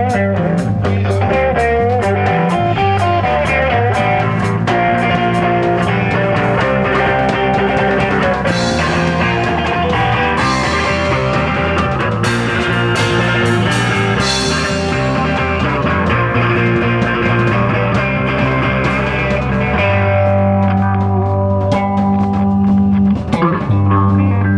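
Live band playing an instrumental passage without singing: guitars lead over bass with a steady beat, and a cymbal wash comes in through the middle.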